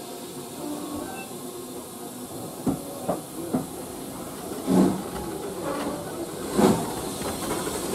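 Steam locomotive pulling away: a steady hiss of steam, then loud exhaust chuffs that come closer together as it gathers speed.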